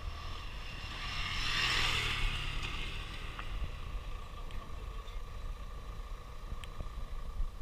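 A motor vehicle passing, loudest about one to two seconds in, over a steady low rumble of wind on the microphone.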